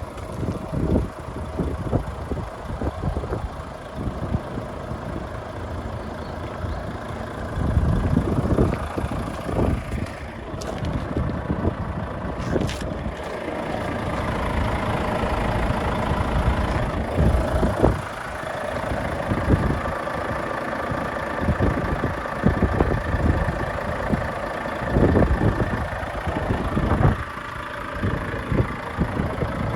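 Volvo FH500 truck's 13-litre straight-six diesel engine idling steadily, with uneven low rumbles over it.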